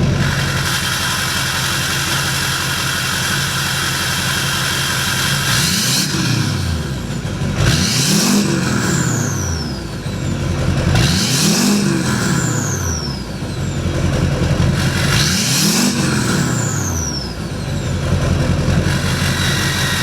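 LLY Duramax 6.6-litre V8 turbodiesel with a straight-pipe exhaust, idling and then revved three times. After each rev the variable-vane turbo whistles, a high whine that slides down in pitch as the revs drop.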